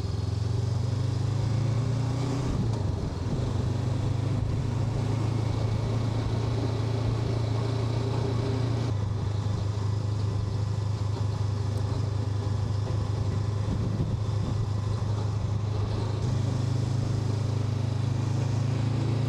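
Honda NX500 motorcycle's parallel-twin engine running at a steady cruise, with wind rushing past. The engine note dips slightly about nine seconds in and rises again near the end.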